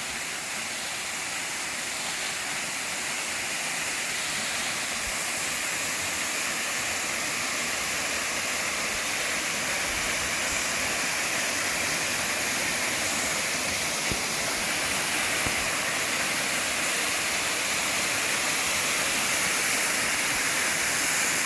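Waterfall: water pouring down steadily in a constant rushing hiss that grows gradually a little louder.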